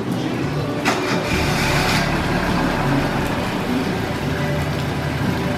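Car engine running steadily, with a sharp click about a second in and a brief rush of hissing noise after it.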